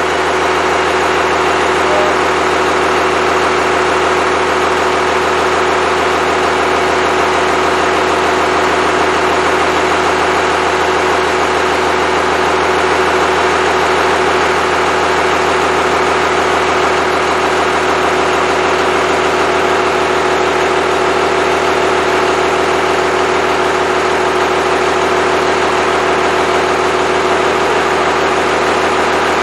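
Freshly rebuilt Cummins 5.9L 12-valve inline-six turbodiesel running steadily at a constant engine speed during its first run after the rebuild.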